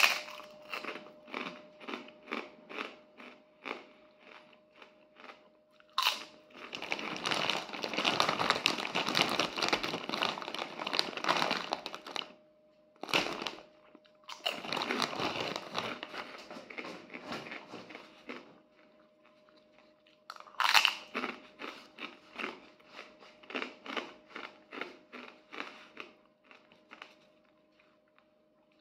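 A person biting and chewing a crunchy snack close to the microphone, in quick rhythmic runs of crunches. The crunching gets denser and louder from about six to twelve seconds in and again around thirteen seconds in.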